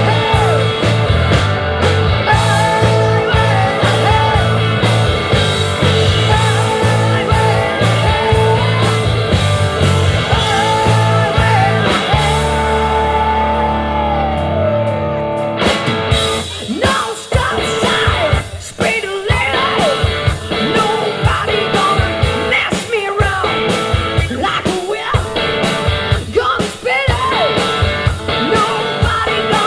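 Rock band playing live, electric guitars, bass and drums with a lead singer. About halfway through, a held note slides down and the heavy low part drops away, leaving the voice over sparser drum hits.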